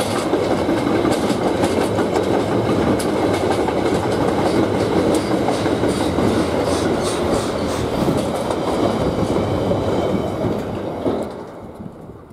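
Train wheels running past on the rails: a steady loud rumble with rapid clicking over the rail joints, fading away quickly near the end.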